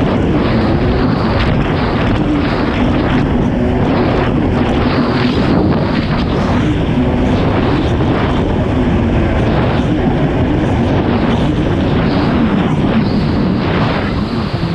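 Kawasaki STX 160 jet ski's four-stroke engine running hard under way, its pitch wavering slightly, with irregular rushes of water and spray against the hull and wind buffeting the microphone.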